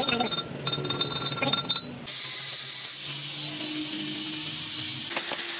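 Metallic clinking and ringing of metal parts and hand tools being worked. About two seconds in it cuts abruptly to a steady hiss with a low hum.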